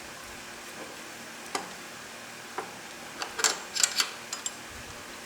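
Scattered sharp metal clicks and clinks from hand work on a planer's parts, with a quick run of them about three and a half seconds in, over a faint steady hiss.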